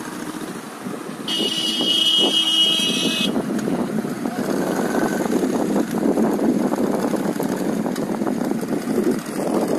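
Road vehicle running in traffic, a dense steady engine-and-road noise that gets louder about a second in. A steady high-pitched tone sounds over it for about two seconds.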